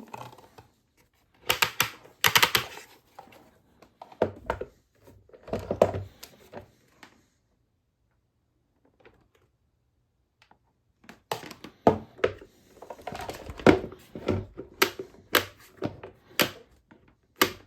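Handling noises: bursts of clicks, knocks and rustling, with a quiet stretch of about four seconds in the middle and a run of sharper clicks near the end.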